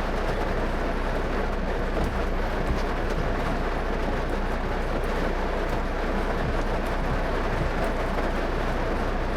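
A car driving on rain-soaked roads in heavy rain: a steady low rumble of road and engine noise under an even hiss of tyres on wet tarmac and rain.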